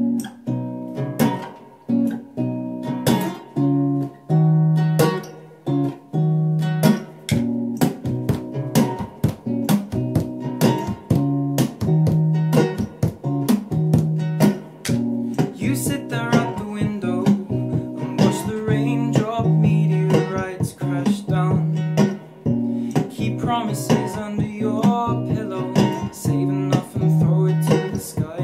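Acoustic guitar playing a rhythmic strummed and plucked pattern that repeats every couple of seconds, layered with a loop pedal; the sound grows fuller about halfway through.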